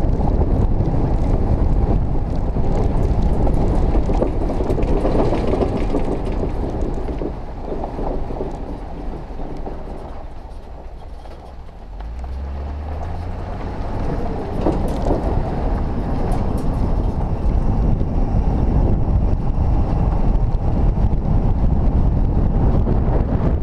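A vehicle running with a steady low rumble and rattle. About halfway through it eases off, then builds again with a rising engine note.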